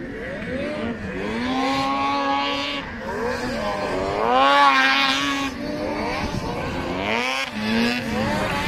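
Racing snowmobile engines revving up and down, their pitch rising and falling several times. The loudest is a rise and fall about halfway through.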